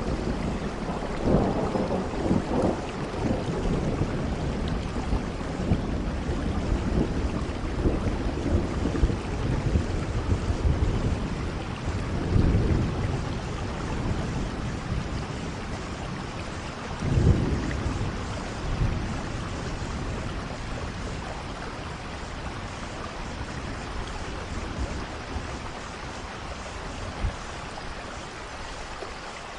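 Steady rain hissing, with low rumbles of thunder swelling a few times in the first two-thirds and easing off toward the end.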